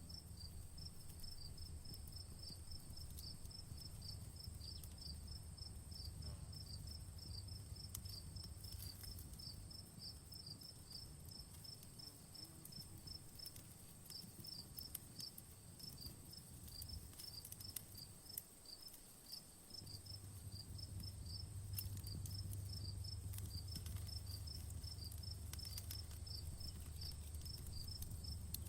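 Crickets chirping in a rapid steady rhythm, about three chirps a second, over a steady high insect hiss. Light crackles of a campfire and a low rumble that grows louder about two-thirds of the way through sit underneath.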